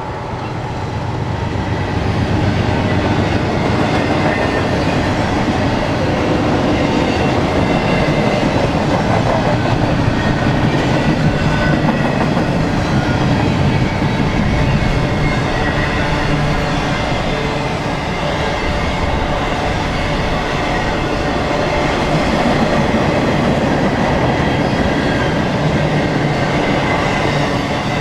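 A BNSF freight train passing, its cars' wheels running steadily over the rails.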